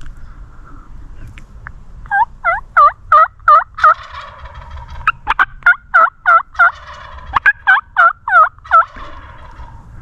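Turkey yelping: a run of about six loud, evenly spaced yelps, roughly three a second, then a few sharp clucks and a second run of yelps that stops near the end.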